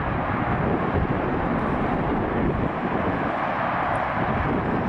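1969 Volkswagen Beetle's air-cooled flat-four engine running as the car drives toward the microphone at low speed, a steady rumble mixed with tyre and road noise.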